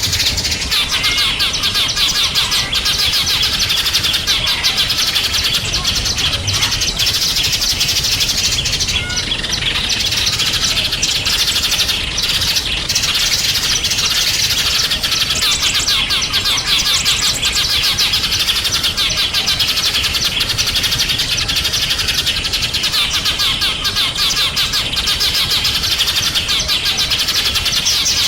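A dense chorus of small songbirds chirping and twittering rapidly and without pause, high-pitched.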